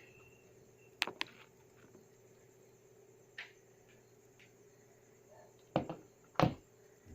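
A few separate sharp clicks and knocks over a faint steady electrical hum. The two loudest knocks come near the end.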